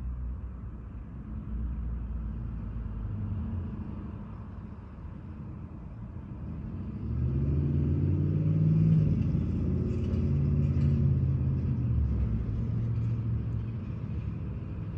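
Motor vehicle engine rumbling, with a low steady hum that grows louder about halfway through, stays loud for several seconds, then eases off near the end.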